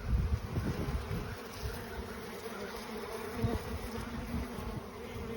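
Many honeybees buzzing in a steady hum as robber bees work over a piece of honeycomb, taking the honey left in it. A low rumble sits under the buzz in the first second.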